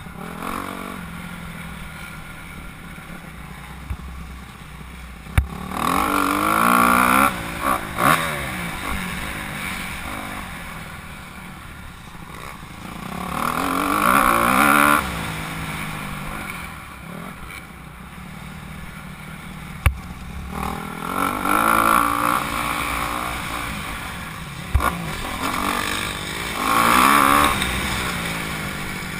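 Motocross bike engines revving hard and easing off as they ride the track, swelling loudly four times with rising and falling pitch, over a steadier distant engine drone. A few sharp knocks are heard in between.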